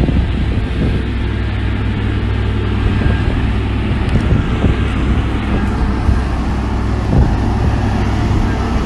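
Heavy diesel earthmoving machinery, a bulldozer or dump truck, running steadily under work with a deep, constant engine drone.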